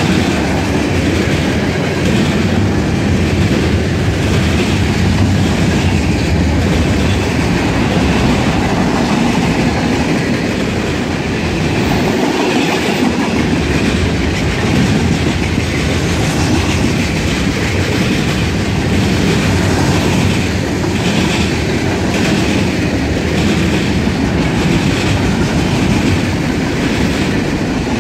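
Freight train of tank cars, covered hoppers and boxcars rolling past at speed: a steady rumble of steel wheels on rail, with a regular clickety-clack as the wheels cross rail joints.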